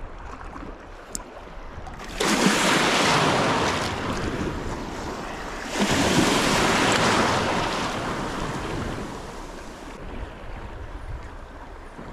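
Sea waves breaking on the shore twice, each surge starting suddenly and washing away over a few seconds, over a steady low wash of water.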